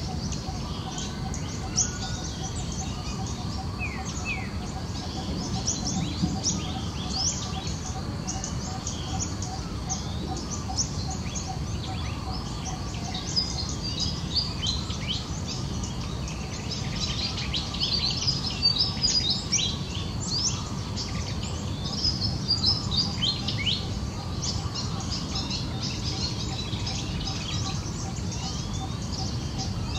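Small birds chirping and calling, with short high chirps throughout that come thickest about halfway through, over faint low background noise.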